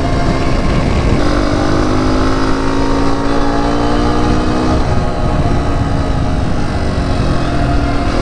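Honda CRF250F single-cylinder four-stroke dirt bike engine running while riding, holding a steady note from about a second in, easing off around five seconds and picking up again near the end, with heavy wind rumble on the microphone.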